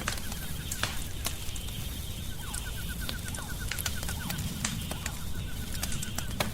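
Wood fire crackling, with sharp irregular pops and snaps over a low steady rumble. Behind it, a rapid repeating trill of short pulses, about seven a second, runs for a couple of seconds in the middle.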